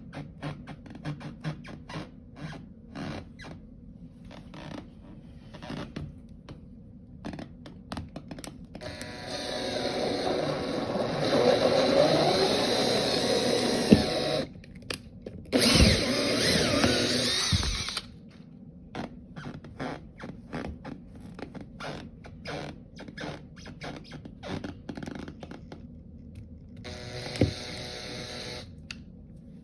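Power drill running in three spells of a few seconds each, the longest about five seconds, its pitch shifting under load, with scattered light clicks and knocks between the runs.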